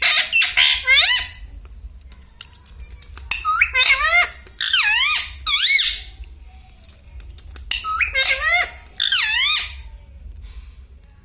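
Indian ringneck parakeet calling in several loud bursts of high, warbling squawks about a second each, with short pauses between.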